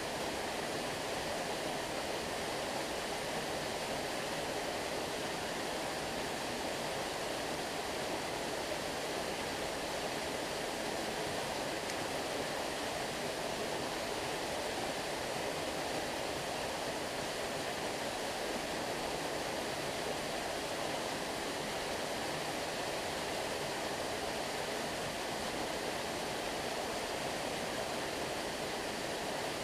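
Stream water flowing steadily: an even rush of running water with no separate splashes or changes.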